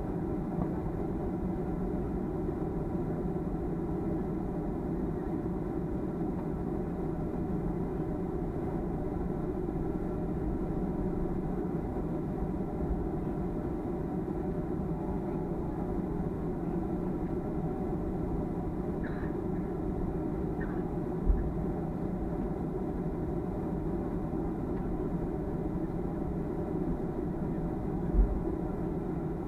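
Cabin noise inside a Boeing 737-300: the steady hum of its CFM56 engines and air system, with several steady tones in it. Two short low thumps come in the second half, about seven seconds apart.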